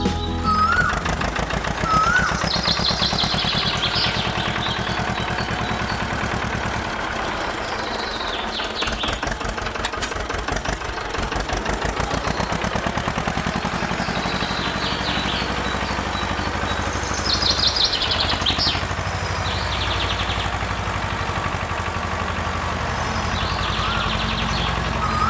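A small engine running steadily with a rapid, even putter, with birds chirping now and then.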